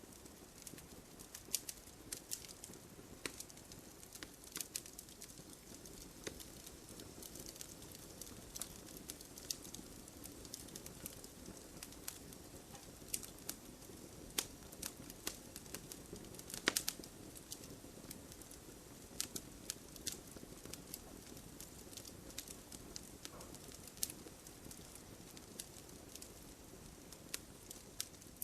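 Wood fire burning in a fireplace: logs crackling with irregular sharp pops over a soft, steady rush of flame, one pop louder than the rest a little past the middle.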